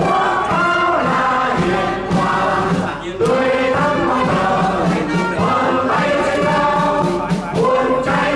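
Music: a choir singing with steady accompaniment.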